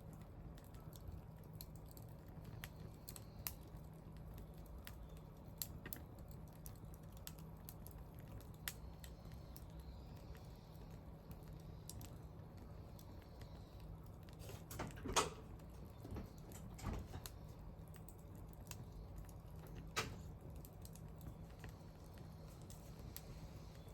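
Wood fire crackling: scattered small clicks and a few louder pops, the loudest about fifteen seconds in, over a faint steady low hum.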